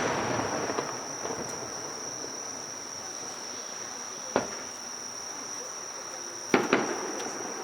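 Fireworks bursting: the crackling tail of a burst fades over the first second, a single bang comes about four and a half seconds in, and two bangs follow in quick succession at about six and a half seconds. A steady high-pitched insect trill carries on underneath.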